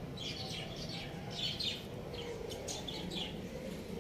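Birds chirping: clusters of short, high-pitched chirps, several a second, over a steady low background noise.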